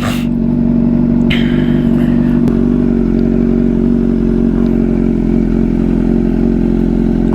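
Motorcycle engine running at a steady, even pitch while riding at constant speed.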